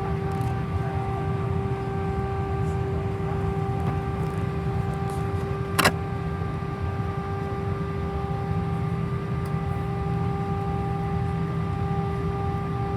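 Airbus A319 jet engines heard inside the cabin: a steady low rumble with a constant whine of several tones over it. A single sharp click sounds a little under six seconds in.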